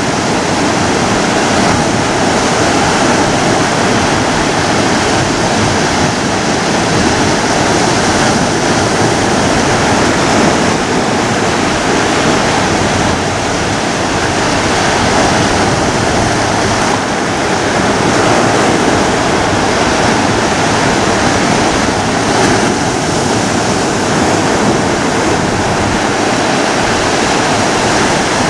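Ocean surf: a steady, even wash of breaking waves, with no single crash standing out.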